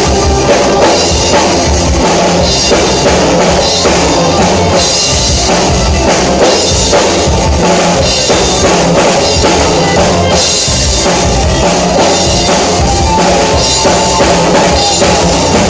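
Live rock band playing loud, with a full drum kit driving a steady beat under the guitars and bass.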